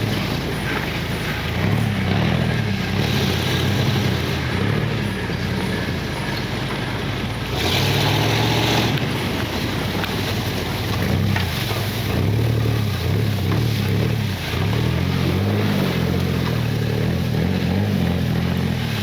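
Mud truck engine revving up and down again and again under load, with a brief rush of noise about eight seconds in.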